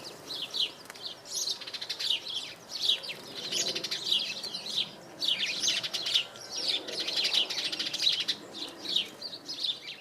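Small garden songbirds chirping and twittering without a break, a dense run of short, high, quick notes.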